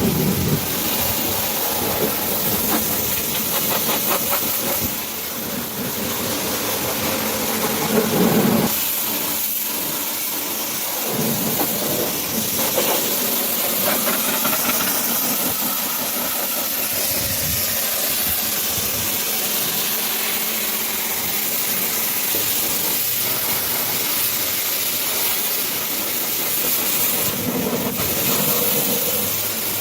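Pressure washer spraying water onto a truck, a steady hiss.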